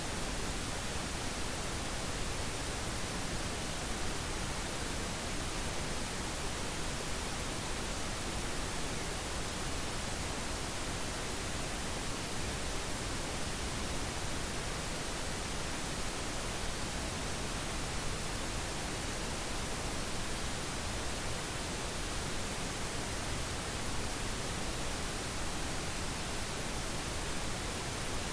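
Pink noise: a steady, even hiss spread across all pitches, with no change or events.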